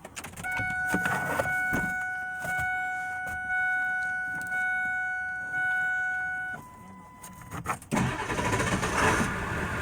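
A truck's dashboard warning chime sounds as a steady tone, repeating about once a second for some six seconds, then a short higher beep. About eight seconds in, the Ford F350's 7.3L Powerstroke V8 diesel cranks and catches and runs, starting easily.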